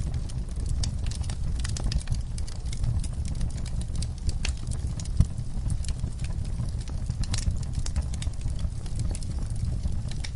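Fireplace fire crackling: irregular sharp pops and snaps over a steady low rumble, with one louder pop about halfway through.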